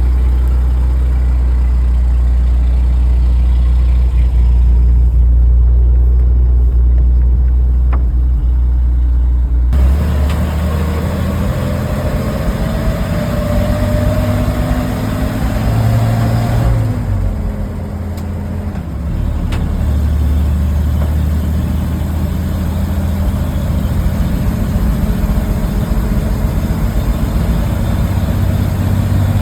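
A 1948 Dodge fire truck's engine idling steadily. About ten seconds in the sound abruptly turns rougher and busier, with a wavering whine that rises and falls for several seconds, then settles back to steady running.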